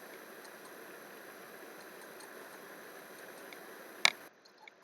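Steady hiss of background noise with faint ticks, which cuts off abruptly about four seconds in. Two sharp clicks come near the end.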